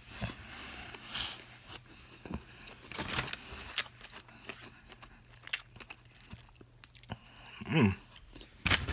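Close-up chewing of a mouthful of fried chicken sandwich, with irregular wet mouth clicks and crunches. Near the end comes a short pitched vocal sound, the loudest moment, then a sharp click.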